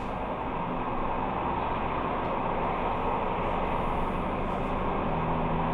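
Steady engine and road noise from a moving vehicle, an even rush with a low drone underneath and no impacts.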